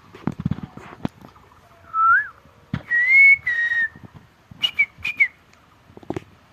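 A person whistling in short phrases: a brief rising whistle, then a longer held whistle, then two quick chirps. Several soft knocks come before and after the whistles.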